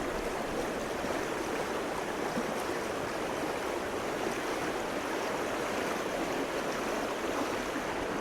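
Stream water rushing steadily, an even unbroken sound.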